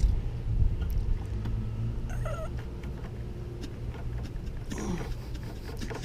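A cat meowing: two short, wavering calls about two and five seconds in, the second falling in pitch, over a steady low hum.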